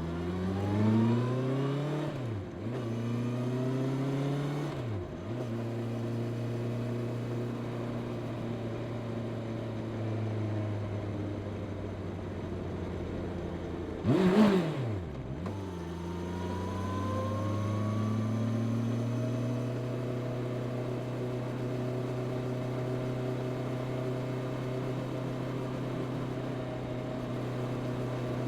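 Honda CB650R's inline-four engine on its stock exhaust, pulling up through the gears with the pitch rising and dropping at two shifts near the start, then cruising steadily. A brief louder moment a little past halfway, where the pitch dips sharply and climbs again, before it picks up speed and settles into an even cruise.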